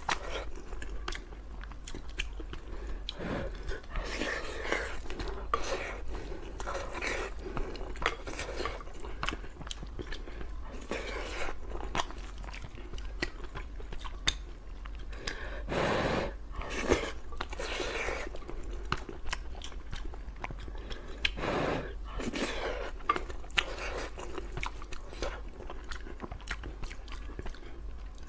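A person chewing and biting mouthfuls of red-braised pork and rice close to the microphone, with wet mouth clicks and smacks coming at an uneven pace.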